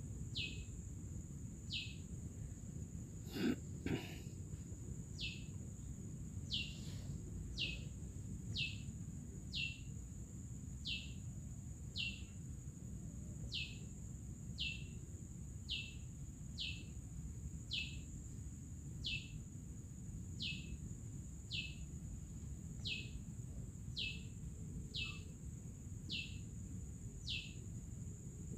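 A bird calling over and over, one short falling note about once a second, over a steady high-pitched whine and a low rumble. Two knocks about three and a half seconds in.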